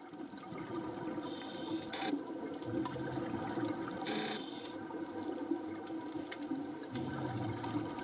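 Underwater recording: steady water noise with a hissing rush of bubbles every few seconds, the rhythm of a scuba diver breathing out through a regulator.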